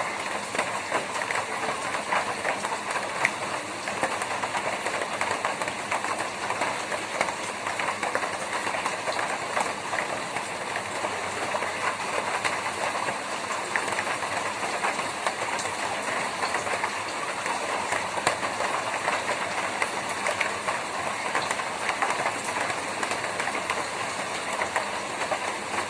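Rain falling on a tin roof: a steady, dense patter of drops striking the metal.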